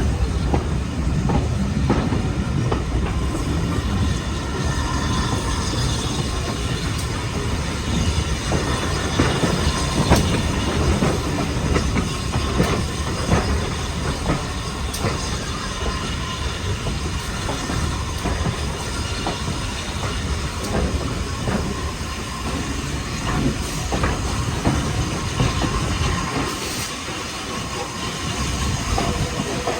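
Heritage railway train running along the line: steady wheel-on-rail noise with frequent clicks and clatter over rail joints, and a faint high wheel squeal.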